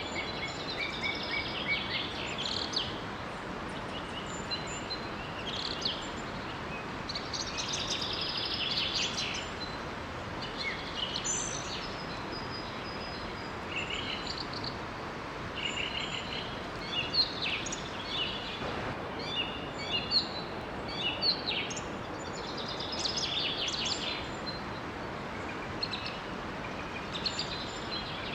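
Several songbirds singing and chirping in quick overlapping phrases over a steady rush of flowing water.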